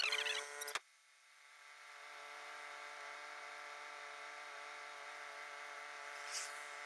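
Steady hum of an idling vehicle heard from inside it, a set of fixed tones. It drops out abruptly under a second in, then swells back up and holds steady, with a few brief high chirps at the very start.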